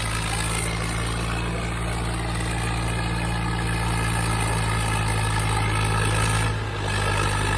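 Swaraj 744 FE tractor's three-cylinder diesel engine running steadily under heavy pulling load without bogging down, with a brief dip about two-thirds of the way through before it steadies again.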